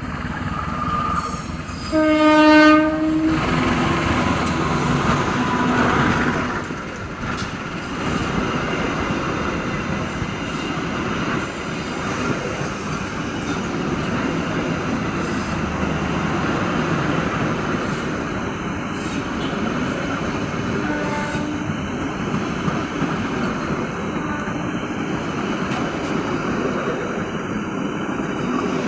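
Indonesian passenger train passing: a locomotive horn sounds loudly about two seconds in, then the carriages roll by with a steady rumble and clatter of wheels on rails.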